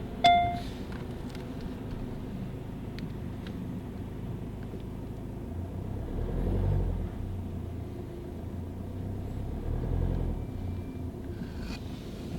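Car engine idling steadily, with a short electronic chime just after the start and two swells of low rumble, the first about halfway through and the second near the end.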